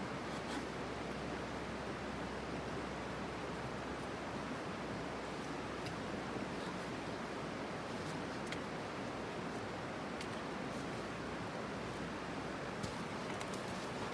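Small campfire burning: a steady hiss with a few faint crackles scattered through it.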